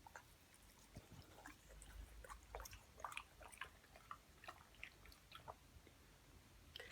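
Olde English Bulldogge chewing a piece of fruit: faint, irregular wet crunches and clicks of its jaws.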